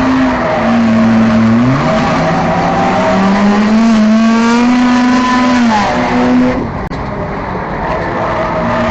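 Enduro race car engine running hard at racing speed. Its pitch climbs steadily for a few seconds, then drops as the throttle comes off, followed by a sharp click and a lower, steady drone near the end.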